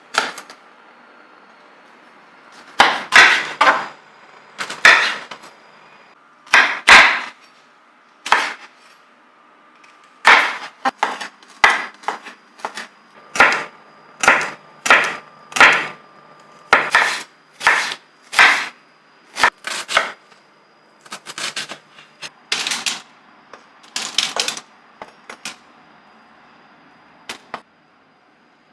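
An irregular series of short knocks and scraping handling sounds, about two dozen, each under a second, with gaps between them and a quieter stretch near the end.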